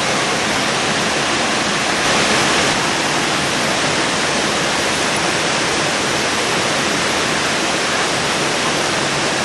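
Waterfall: a steady, loud rush of falling water, swelling slightly about two seconds in.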